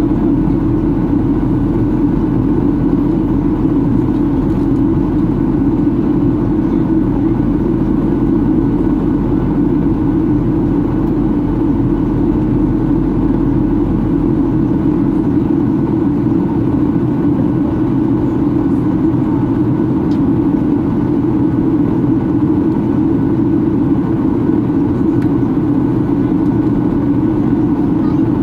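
Steady cabin drone of a Boeing 737-800 in flight: its CFM56 jet engines and the rush of air over the fuselage, heard from inside the cabin. A very low hum underneath stops about halfway through.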